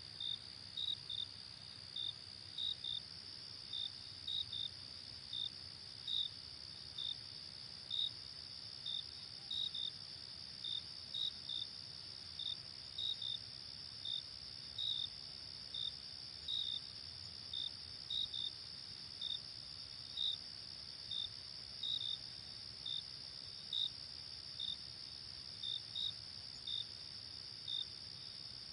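Night insect chorus: a steady high trill with a cricket's short chirps on top, about one or two a second, some in pairs.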